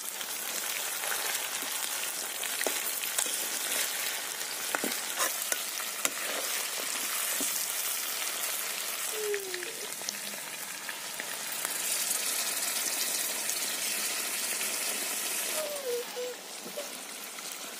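Chicken pieces sizzling in hot oil in an iron wok, with a metal spatula scraping and knocking against the pan now and then as the meat is turned.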